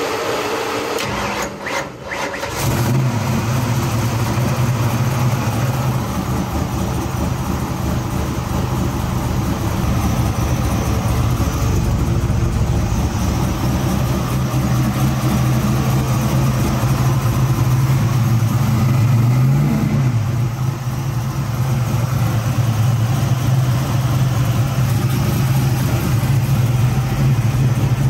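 Ford Maverick's carbureted V8 cranking for about two seconds on its newly fitted, freshly primed four-barrel carburetor, then catching and running at a steady fast idle. One brief rise in revs comes about two-thirds of the way in.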